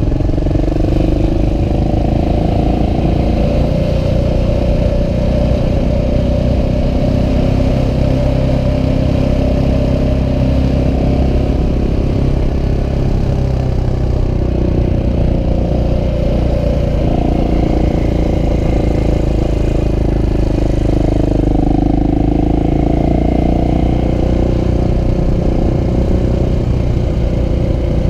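KTM 690 SMC R supermoto's single-cylinder four-stroke engine running steadily under way, its pitch easing off and rising again a few times.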